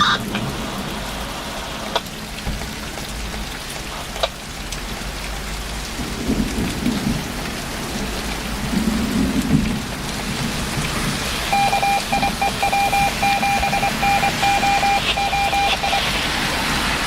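Steady rain from a severe thunderstorm, with low rolls of thunder about six and nine seconds in. From about eleven to sixteen seconds in, a rapid on-off electronic beeping on two pitches.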